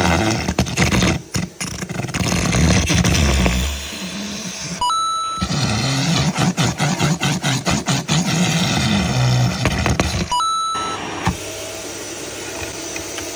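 Vacuum cleaner running loudly with uneven rattling. It breaks off twice, about five seconds in and again near ten and a half seconds, each time with a short beep.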